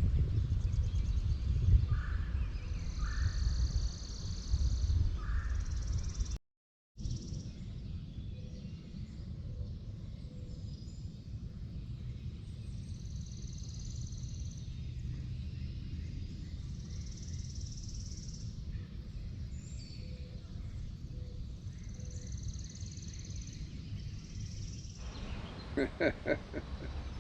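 Outdoor ambience: wind rumbling on the microphone, with a few short bird chirps in the first seconds and a high buzzing that swells and fades every few seconds. The sound drops out briefly about six seconds in and comes back quieter.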